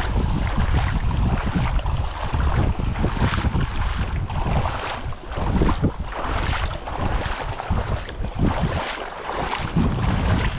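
Footsteps wading through water deep enough to top the boots: a regular run of splashing, sloshing steps a little more than one a second, clearest from about three seconds in. Wind rumbles on the microphone underneath.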